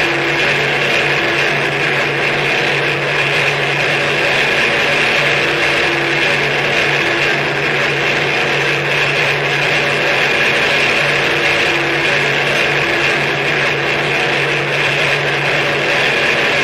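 Harsh noise music: a loud, steady wall of dense hiss with a bright band high up and a low, steady hum beneath, and a mid-pitched tone that drops in and out every second or two.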